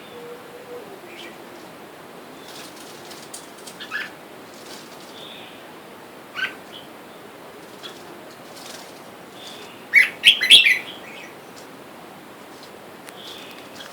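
Red-whiskered bulbuls giving short, scattered chirps, then a loud quick run of calls with fluttering wings about ten seconds in.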